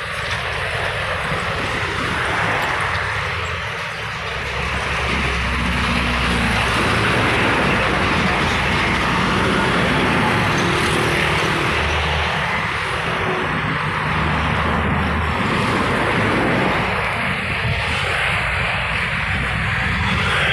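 Highway traffic with heavy diesel trucks passing: tyre and engine noise runs throughout. A deeper engine drone comes in about a quarter of the way through and holds until about three-quarters of the way through.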